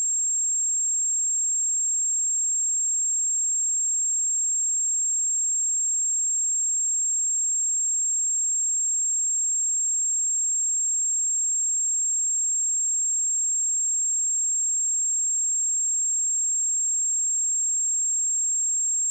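A steady, high-pitched 7488 Hz sine-wave test tone, one pure unbroken pitch.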